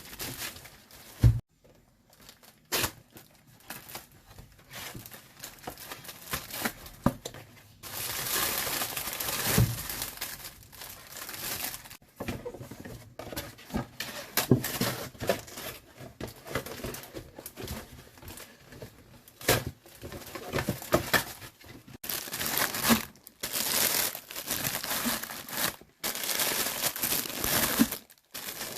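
Plastic bags and food packaging crinkling and rustling in irregular bursts, with a few sharp knocks, as groceries are handled and unpacked.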